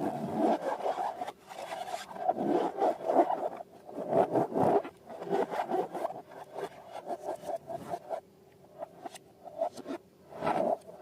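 Slime being worked by hand: an irregular run of crackling, squishing and scraping, with a couple of brief pauses near the end.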